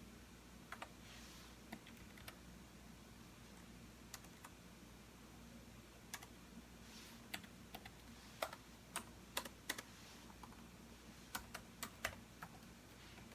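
Computer keyboard keystrokes, irregular and sparse: a few scattered taps, then a quicker run of keystrokes in the second half, over a faint steady hum.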